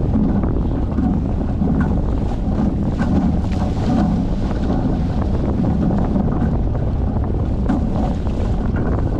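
Onboard a Hobie 14 catamaran under sail: strong wind buffeting the microphone over the rush of water along the hulls, with small knocks and rattles from the boat.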